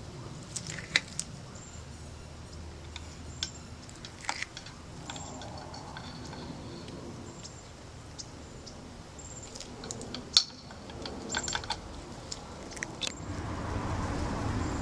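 Scattered light clicks and taps of metal parts being handled as a fork damper rod is fitted into the right-side fork leg, with a few louder sharp ticks.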